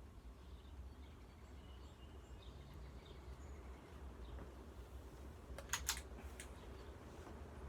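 Vintage TAT 48-inch ceiling fan running on its fastest speed: a faint, steady low hum, with about three sharp clicks near six seconds in.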